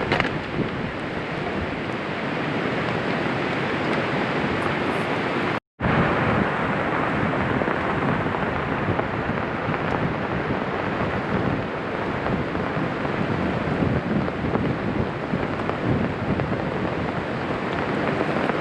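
Heavy rain falling steadily in a downpour, pattering on an umbrella over the camera. The sound cuts out completely for a split second about six seconds in.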